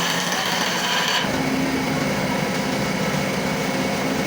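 A woodworking power tool's motor running steadily, its tone shifting about a second in.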